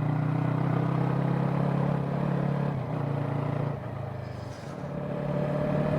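Small Yamaha sport bike's parallel-twin engine running steadily while riding. The engine note falls away briefly about four seconds in, then picks back up.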